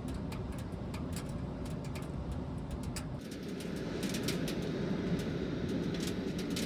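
Rain pattering on the kei-truck panel van's roof: a steady patter with many scattered sharp ticks, changing in tone about three seconds in.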